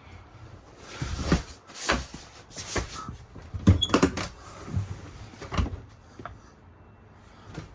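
A run of wooden knocks and clunks, about a dozen over four or five seconds, loudest about halfway through: cabinet doors or panels being opened and shut, likely on the Murphy bed cabinet.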